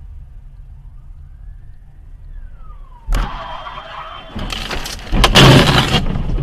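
Car collision: under steady road rumble, a squealing tone rises and then falls, then a sudden loud bang about three seconds in, followed by a louder burst of crunching and scraping.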